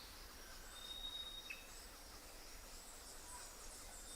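Faint nature ambience: birds calling over a soft steady hiss, with a long thin high whistle about half a second in and a short downward chirp about a second and a half in.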